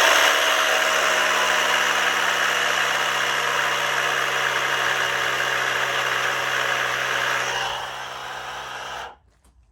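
Motorcycle lift raising the bike: a motor running steadily with a strong hiss, starting abruptly, dropping in level near the end and then cutting off suddenly.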